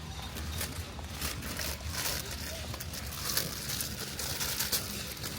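Busy store ambience: indistinct background voices under a steady low hum, with scattered clicks, rattles and rustling.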